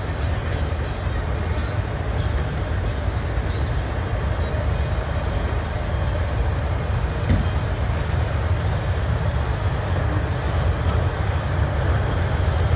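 Norfolk Southern intermodal freight train of double-stack container cars rolling by, a steady low noise of wheels on rail with no distinct clicks or horn.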